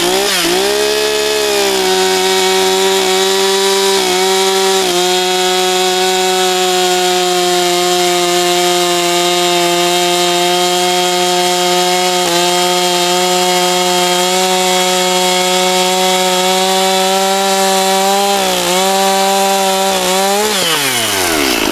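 Two-stroke chainsaw, the 241, cutting through a log at full throttle. It revs up over the first couple of seconds and holds a steady high pitch under load, dipping briefly a few times. Near the end it winds down as the throttle is released.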